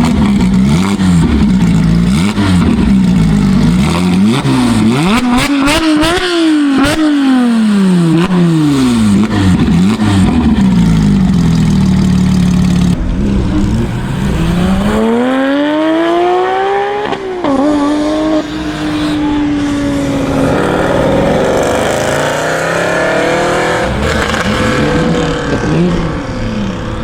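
Sports car engines revving and accelerating hard, the pitch climbing and falling again and again. About fifteen seconds in comes one long rising pull, which then settles into a steadier note.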